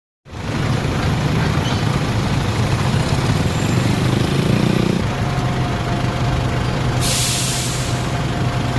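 Motor traffic in heavy rain: a steady rush of rain and tyre noise over a low engine hum, with the engine pitch rising briefly around the middle. Near the end comes a sharp hiss of about a second, like a heavy vehicle's air brake releasing.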